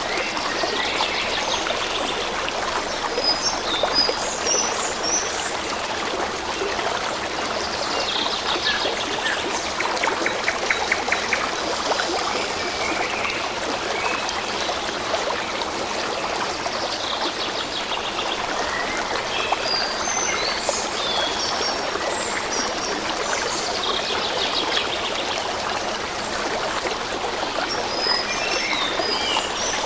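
A stream flowing steadily, with small birds chirping and trilling over it every few seconds.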